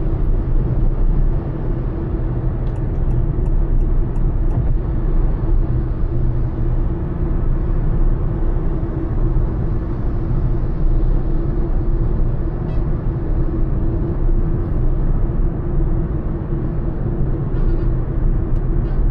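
Honda Elevate SUV cruising at highway speed: a steady low rumble of road and engine noise, with a brief run of faint quick clicks about three seconds in.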